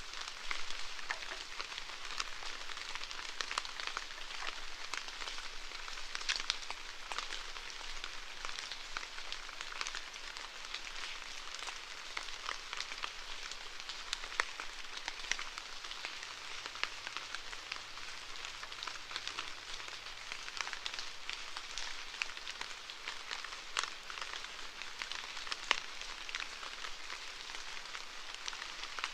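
Steady rain falling, an even hiss made up of many individual drops hitting a surface, with a few sharper drop hits standing out now and then.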